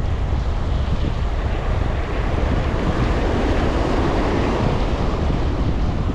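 Heavy wind buffeting the microphone with a steady low rumble, over sea surf washing against the rocks; the wash of the surf swells up about three seconds in and eases off before the end.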